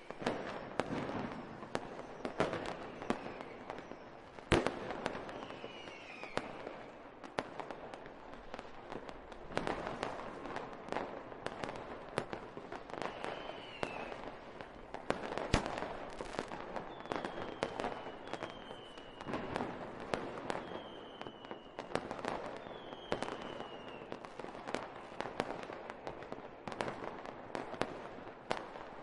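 Fireworks going off: a steady run of sharp bangs and crackling, with several whistles that fall in pitch spread through it.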